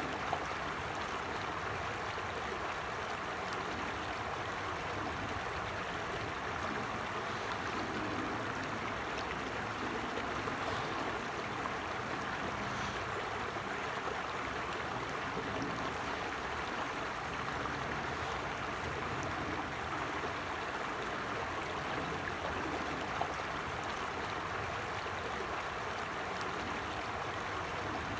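Forest stream flowing over stones, a steady rushing and babbling of water.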